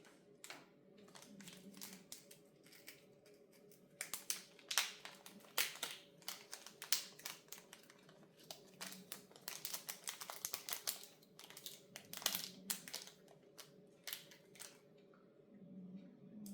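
Hands fitting small plastic parts of an LED clock kit: irregular light clicks and taps, with some crinkling of packaging, busiest in the middle.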